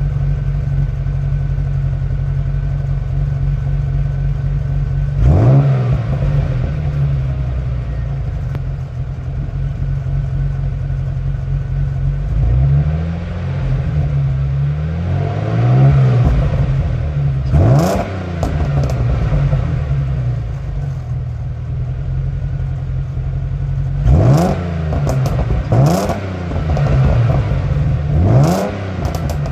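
Jaguar S-Type V6 exhaust through aftermarket sports mufflers, idling steadily and revved with quick throttle blips about seven times, each rising and falling in pitch, three in close succession near the end.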